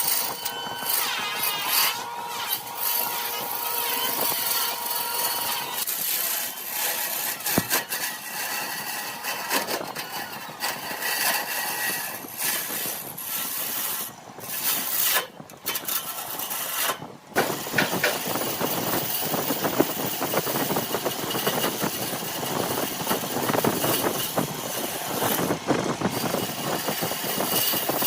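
Woodturning lathe running while a workpiece spins and is worked, a steady machine noise with brief dips in the middle.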